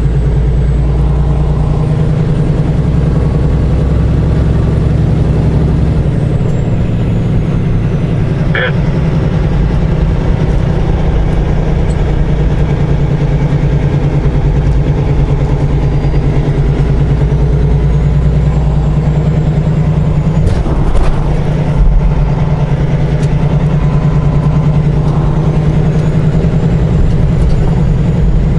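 Semi truck's diesel engine running steadily while driving, heard from inside the cab, with a short click about nine seconds in.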